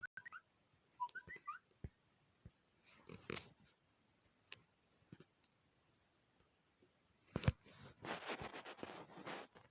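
A few short, chirpy whistled notes near the start, sliding up and down in pitch. They are followed by scattered clicks and bursts of noise, the longest and loudest near the end.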